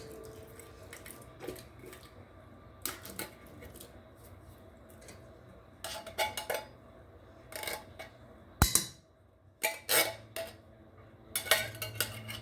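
Cookware and utensils clinking and clattering on and off, with one sharp knock a little past halfway.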